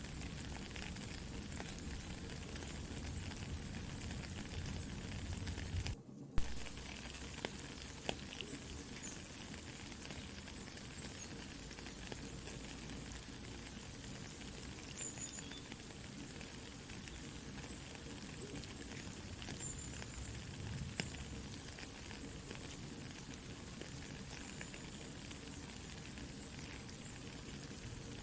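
Soft rain falling steadily, mixed with a campfire crackling, with scattered sharp pops. About six seconds in the sound cuts out for a moment, then comes back with a loud pop.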